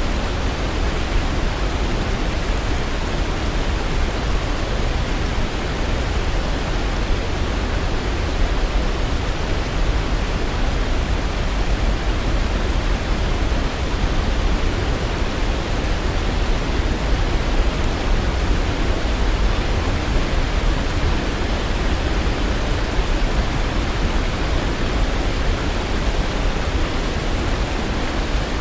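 Waterfall rushing in a steady, unbroken roar of water, heaviest in the low end.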